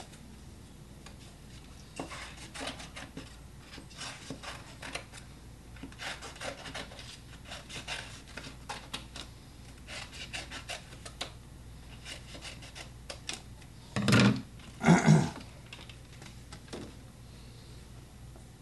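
Irregular short scraping and rubbing strokes of art tools on a journal page, then two loud, short sounds about half a second each near the end.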